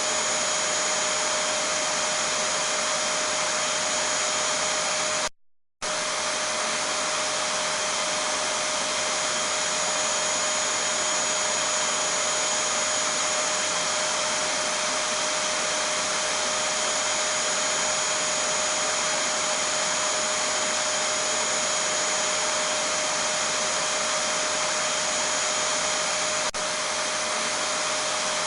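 Vacuum cleaner motor running steadily, a rushing hiss with a high whine over it. It cuts out for about half a second around five seconds in, then carries on unchanged.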